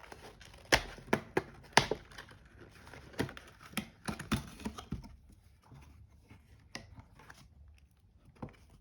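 Protective plastic wrap being torn and peeled off a cardboard box of sticker packets: irregular sharp crackles and snaps, loudest in the first half and thinning out near the end.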